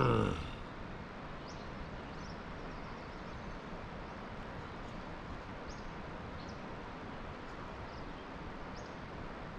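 Outdoor background: a steady hiss with faint, short, high bird chirps every second or two. A brief, louder pitched sound slides down in pitch right at the start.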